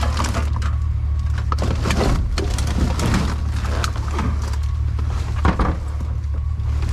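Rustling, clicking and clattering as salvaged items are moved and dug through, with a louder knock about five and a half seconds in, over a steady low rumble.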